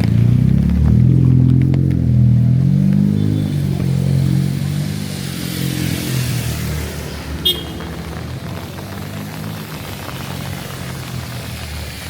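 A motor vehicle engine passing close, its pitch rising as it accelerates over the first few seconds, then fading away. A short sharp click comes about seven and a half seconds in.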